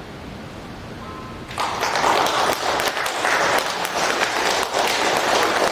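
Audience applauding, breaking out suddenly about a second and a half in after a quiet pause, the applause that greets the end of a choir piece.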